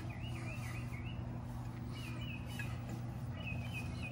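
A small bird singing in short phrases of quick, repeated chirping notes, over a steady low hum.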